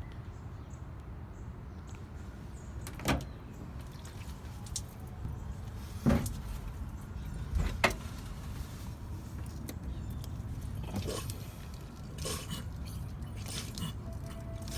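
Several separate sharp knocks and clicks, a few seconds apart, over a low steady rumble, with a brief faint steady tone near the end.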